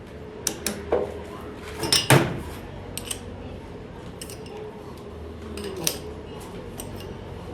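Metal tools and parts clinking and knocking as they are handled on a workbench, in scattered strokes with the loudest cluster about two seconds in, over a faint steady hum.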